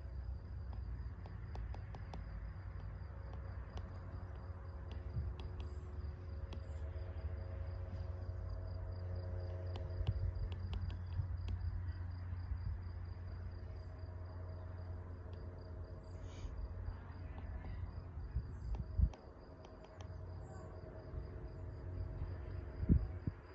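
A cricket chirping in a steady, fast pulsing trill, over a low rumble and occasional light clicks.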